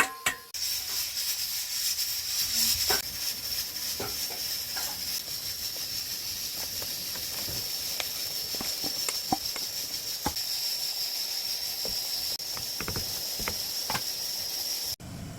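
Food sizzling in a hot frying pan: a steady hiss with scattered small pops and crackles of spattering oil, cutting off abruptly near the end.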